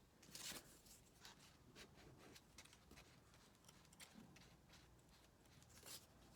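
Faint rustling and light taps of construction paper being handled and pressed down, with a brief louder rustle about half a second in.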